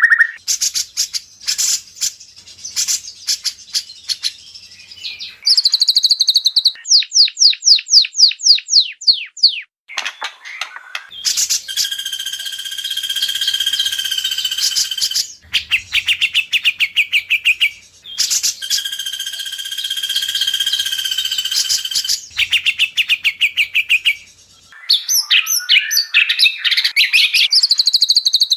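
White-rumped shama (murai batu) song from an edited training recording. Rapid ticking notes are followed by a quick run of down-slurred whistles, then a long rattling phrase that comes twice, the second time a copy of the first.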